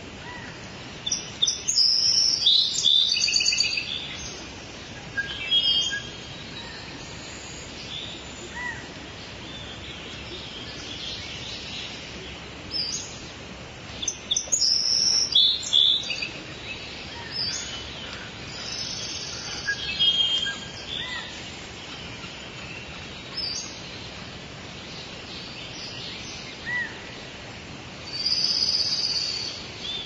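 Birds chirping and calling in several flurries over a steady background hiss of forest ambience, with the busiest bursts about a second in, around the middle, and near the end.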